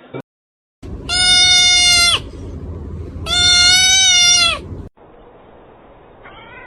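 An animal giving two long, loud calls about a second apart, each holding its pitch and then dropping at the end; a fainter call begins near the end.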